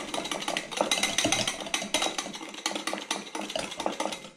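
A spoon beating a marinade of olive oil and strong mustard in a bowl, clinking quickly and steadily against the bowl as the oil is whipped into the mustard.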